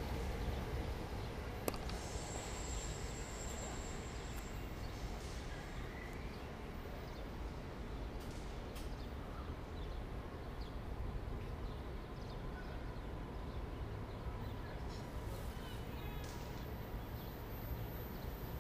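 Steady outdoor background noise. A SEPTA Regional Rail electric train fades away as it pulls off in the first couple of seconds, and there is a single sharp click about two seconds in.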